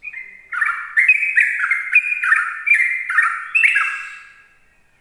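Sooty-headed bulbul (trucukan) singing a long, rapid 'ropel' song: a continuous string of short notes repeated several times a second, dying away near the end.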